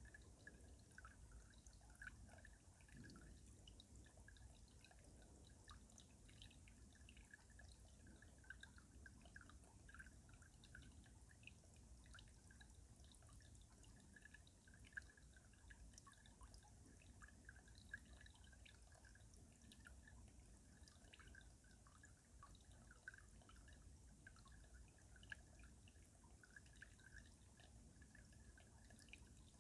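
Stream water flowing under ice, heard faintly as steady dripping and trickling, with a few sharp ticks.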